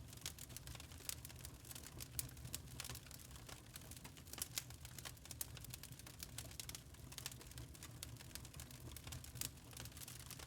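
Wood fire in a fireplace crackling, with irregular sharp pops and snaps over a low steady rumble of the burning logs.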